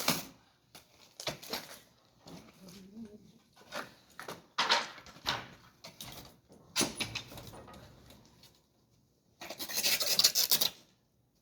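Pieces of firewood scraping and knocking against each other as they are handled and stacked for a bonfire, in several short scraping bursts with a longer, louder scrape near the end.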